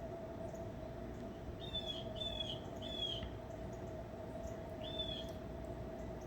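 A bird calling four short, slightly falling notes, three in quick succession and one more about two seconds later, over a steady background hum.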